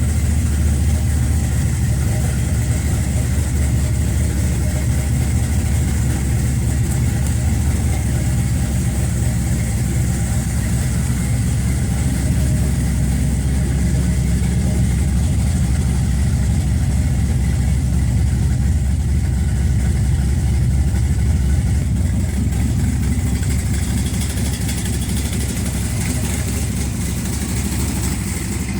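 Custom truck's engine idling steadily just after being started, a deep even rumble that eases a little about twenty-two seconds in.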